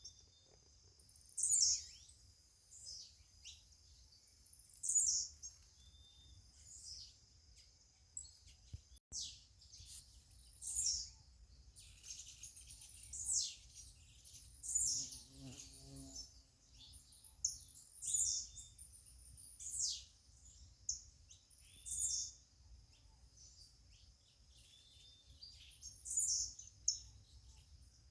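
Birds chirping: short, high calls repeated every second or so, some sliding down in pitch. Beneath them runs a faint, steady high-pitched hum and a low background rumble.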